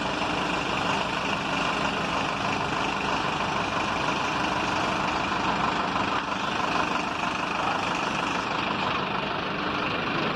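Diesel engine of a Mercedes-Benz OF-1721 BlueTec 5 bus running steadily.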